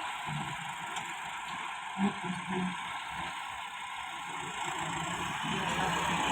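A vehicle engine running steadily at idle, with a few brief faint low calls in the background.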